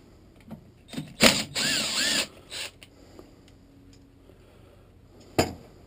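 Cordless impact wrench with a socket on a transmission bolt: a metal clank, then a burst of about half a second with the motor whine rising and falling, and a shorter second burst. A single sharp metal knock near the end.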